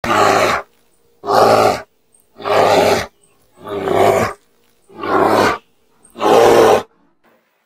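Grizzly bear roaring: six loud roars of about half a second each, a little over a second apart.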